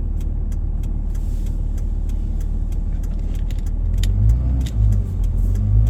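Car driving, heard from inside the cabin: a steady low road-and-engine rumble with frequent light clicks and rattles, and a few heavier low bumps near the end.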